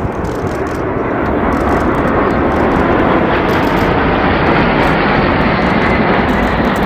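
A display aircraft's engine noise, a dense rushing sound that swells over about two seconds as the plane comes closer, then holds loud.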